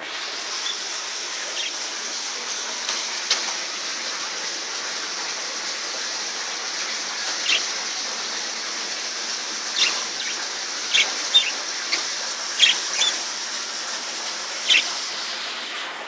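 Small caged aviary birds, budgerigar-type parrots, giving about ten short, separate chirps, more often in the second half, over a steady rushing hiss.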